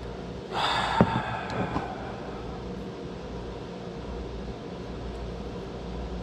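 Ramune bottle being forced open with its plastic plunger: a sharp click as the marble seal gives, within a short hiss lasting about a second and a half, then only a low steady background.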